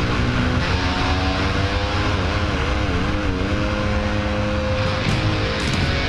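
An off-road engine running under a rider's throttle, its pitch climbing at the start, rising and falling a few times in the middle, then holding steady.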